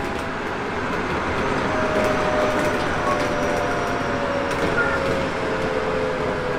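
Interior running sound of a Hokuso 7300-series electric train with a Toyo GTO-VVVF inverter: a steady rumble of wheels on rail, with a thin inverter tone slowly falling in pitch as the train slows for the next station.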